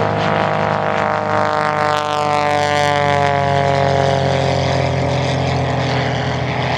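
Pitts aerobatic biplane's piston engine and propeller passing, its note dropping in pitch as it goes by, then running on steadily.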